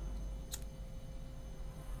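A steady low hum with one light tick about half a second in.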